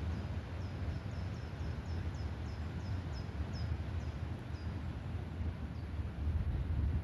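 Wind blowing steadily through a beech forest as a low rumbling rush. Over it, a small bird sings a quick series of short, high, falling chirps, about four a second, through the first four seconds or so, then gives one or two more.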